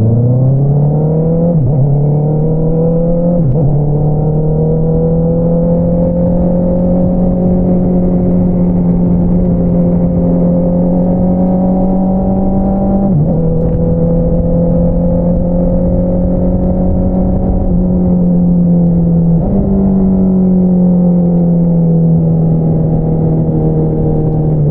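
Honda CBR650R's inline-four engine through an Akrapovič single-outlet exhaust while riding. It pulls up through two quick upshifts in the first few seconds, then holds steady cruising revs, with brief throttle changes about 13 and 18 seconds in and a short rise in revs about 19 seconds in that slowly eases off.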